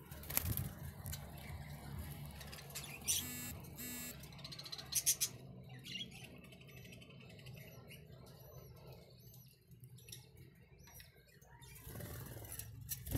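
Budgies chirping and chattering: many short, high chirps and a quick buzzy trill, with a few light clicks.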